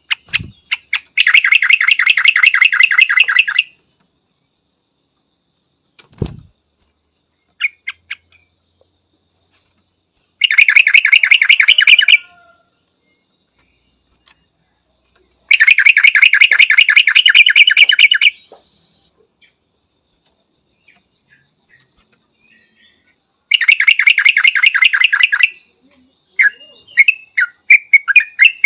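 Yellow-vented bulbul calling: four loud bursts of rapid, evenly repeated notes, each lasting two to three seconds, with a few seconds' pause between them. A brief low thud comes near the start and another about six seconds in.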